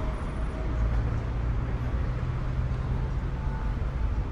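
Street traffic with a motor vehicle's engine running close by: a low rumble throughout, and a steady low hum that sets in about a second in and fades near the end.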